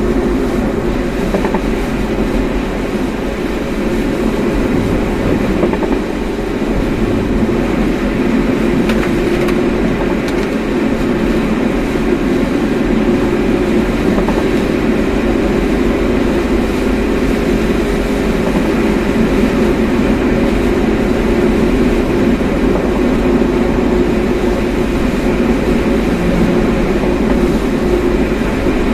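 Steady rumble of a car driving, with tyre and engine noise holding an even level throughout.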